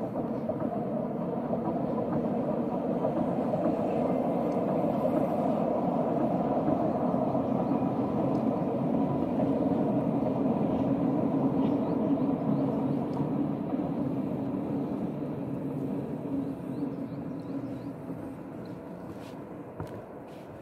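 Rhaetian Railway electric train passing over a stone viaduct: the steady rumble of its wheels on the rails, swelling towards the middle and fading over the last few seconds as it moves away.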